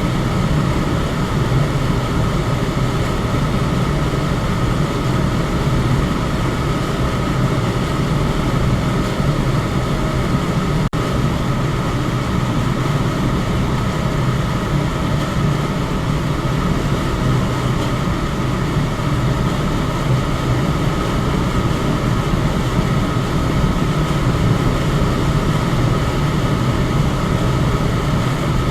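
Electric fan running steadily: an even rush of air with a low hum and a faint steady tone riding on top, broken only by a momentary dip about eleven seconds in.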